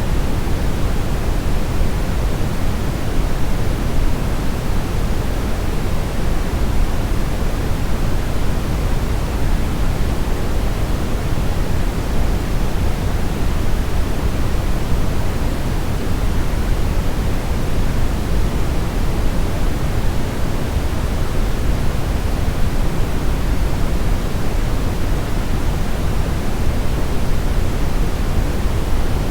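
Brown noise: a steady, even rushing hiss weighted heavily toward the low end, with no changes or events.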